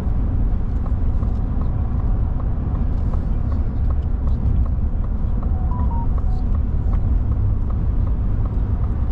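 Steady low rumble of a moving car or camper on the road, with faint regular ticks running through it.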